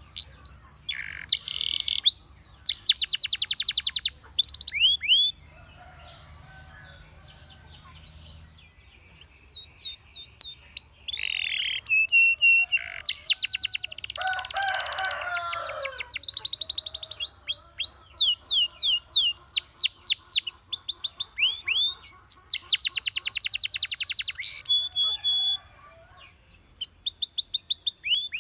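Domestic canary singing: fast rolls of repeated high notes and trills, with sweeping whistled notes in between. The song breaks off for a few seconds about five seconds in, then resumes.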